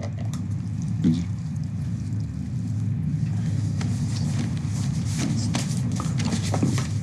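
Steady low rumble of a high-speed train running, heard from inside the carriage, with scattered small clicks and rustles.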